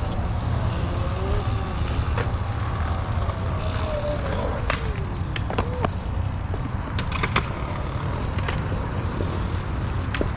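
Steady wind and road rumble from a Sur Ron electric dirt bike on the move. A faint whine slides down in pitch about four to five seconds in, and there are a few sharp clicks.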